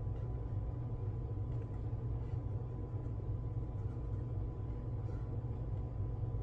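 Steady low hum of room tone with a faint, thin steady tone above it; no distinct work sounds stand out.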